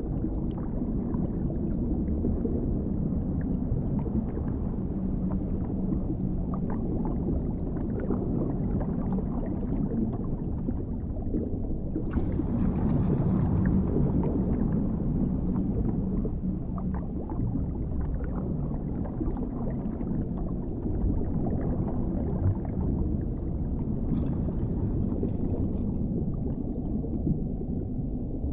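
Underwater ambience: a steady, deep, muffled rumble with faint gurgles through it, turning brighter for a few seconds about halfway through.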